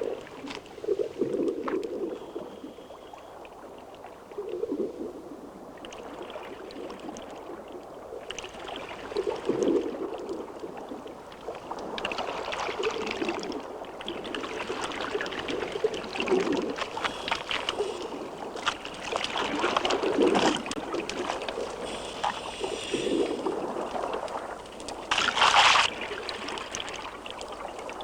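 Water sloshing, splashing and gurgling in uneven surges, with one louder, brief burst near the end.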